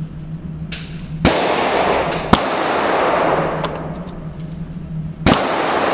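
Three handgun shots, about 1.3 s, 2.4 s and 5.3 s in, each with a long echoing tail, over a steady low hum.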